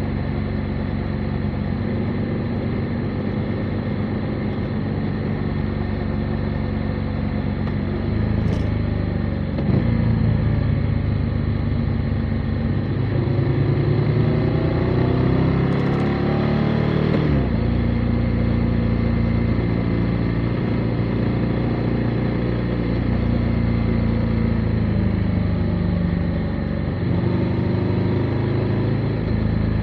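Motorcycle engine running under way. Its pitch shifts several times, rising steadily for a few seconds past the middle and then dropping suddenly, with a couple of short clicks.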